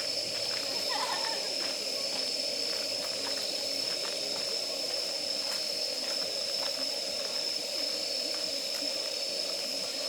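Wood campfire burning steadily, with frequent small crackles and pops from the burning firewood over a steady high-pitched tone and hiss.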